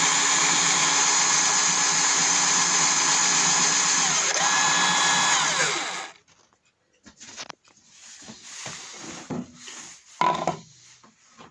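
Homemade drill press driven by a 12-volt cordless screwdriver motor, running steadily and then shutting off about six seconds in. Light handling clicks follow, with a sharper knock near the end.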